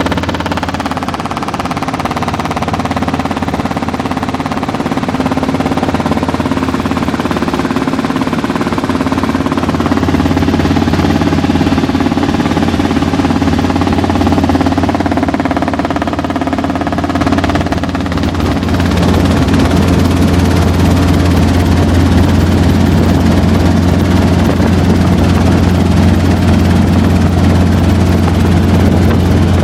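Helicopter engine and rotor running steadily with a constant low hum, growing slightly louder about eighteen seconds in.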